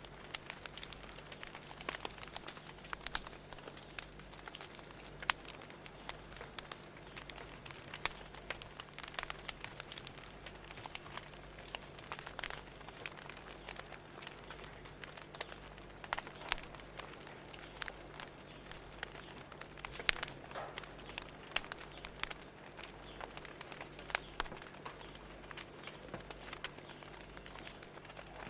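Fire crackling: irregular sharp pops and snaps over a soft steady hiss, with a faint low hum underneath.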